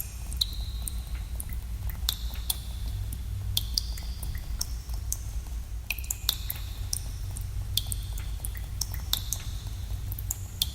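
Water drops falling into a cave pool at irregular intervals, each a sharp plink with a short, high ringing tone, over a steady low rumble of cave room tone.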